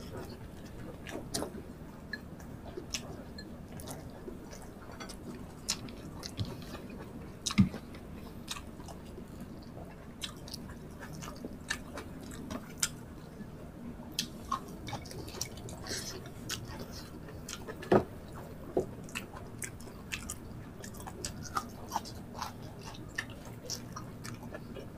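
Close-miked chewing of two people eating rice, tocino and vegetables with their hands, with many short clicks scattered throughout over a faint steady hum.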